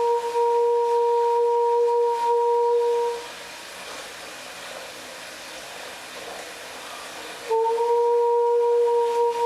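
A woman's voice holding one steady, nearly pure sung note over running tap water. She breaks off about three seconds in, leaving only the hiss of the running water, then takes up the same note again near the end.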